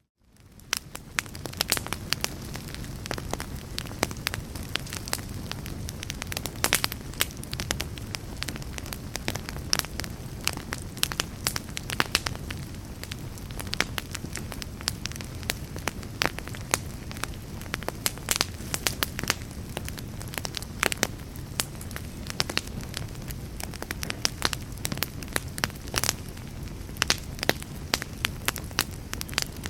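Log fire burning in a fireplace: a steady low rumble of flame with many sharp, irregular crackles and pops from the burning wood. It fades in from a brief silence at the very start.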